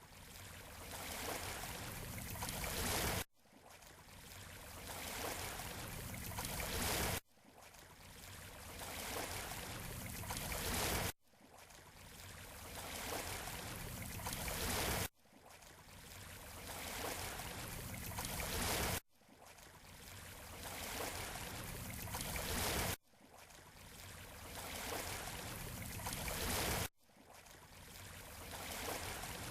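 Surf washing on a beach shore, from a short recording played over and over in a loop. Each pass swells over about four seconds and then cuts off abruptly before starting again.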